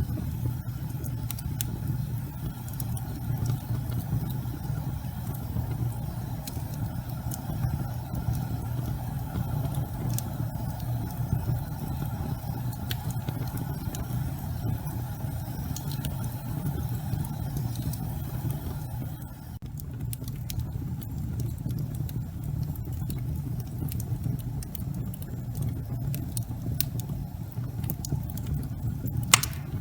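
Wood fire burning in a fireplace: a steady low rumble of flames with scattered small crackles, and one sharp pop near the end.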